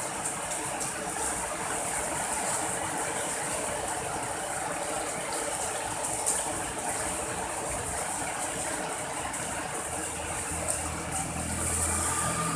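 Steady rain falling, an even hiss with a few sharp drip-like ticks. A motor vehicle's engine hum comes in low underneath near the end.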